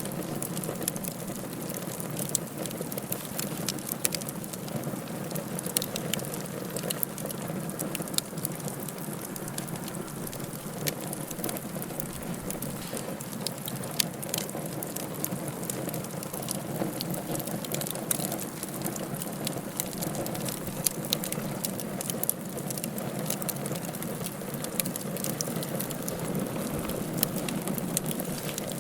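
Wood fire burning in a fireplace: a steady low rush of flame with frequent sharp crackles and pops scattered throughout.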